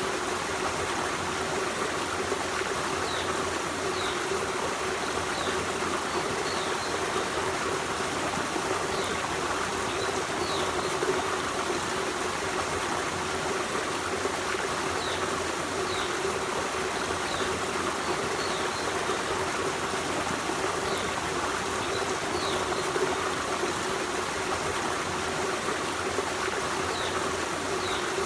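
Forest stream running steadily over rocks, a continuous rushing and trickling of water. Short high chirps come every second or two.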